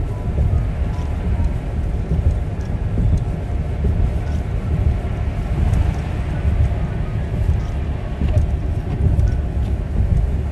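Steady low rumble of a motor vehicle on the move: engine and road noise, with a few faint ticks over it.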